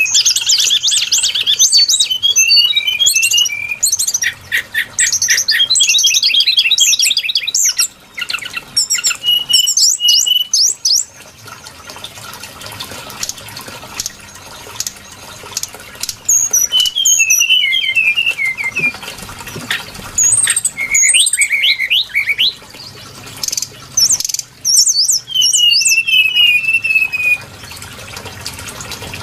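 Brown-chested jungle flycatcher singing: bursts of rapid high notes and trills, some phrases falling in pitch, with a quieter gap about halfway through.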